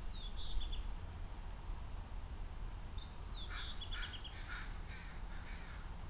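Birds calling: a high call sliding down in pitch at the start, and again about three seconds in, followed by a quick run of short high notes and a series of short harsh calls.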